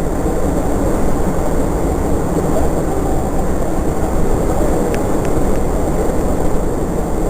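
Loud, steady low rumble of Niagara's Horseshoe Falls at close range, heard from a tour boat running into the mist at the foot of the falls.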